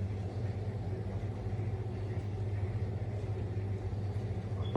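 Steady low vehicle rumble with a constant low hum, cut off by a sharp click at the very end.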